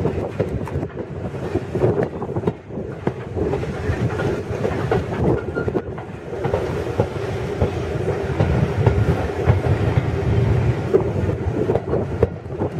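Railway carriage running along the track, its wheels clicking over the rail joints, with a steady rumble and hum.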